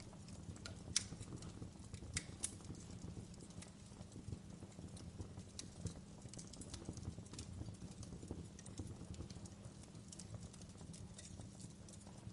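Wood fire crackling: irregular sharp pops and snaps, a few louder ones in the first few seconds, over a low steady rumble of burning.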